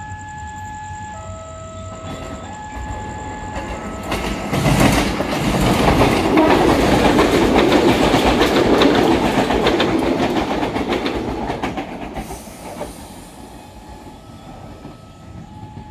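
A train passes through at speed, loudest from about 4 to 12 seconds in, with the rumble and rapid clacking of wheels over rail joints; it is likely the special working delivering a diesel railcar from Surabaya. A two-tone electronic warning signal alternates steadily before the train arrives and again after it has gone.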